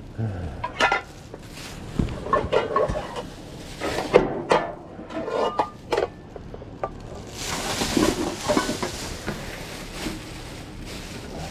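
Junk being rummaged through in a dumpster: irregular clattering and knocks of hard objects being moved and dropped, turning to a steadier rustling about seven seconds in.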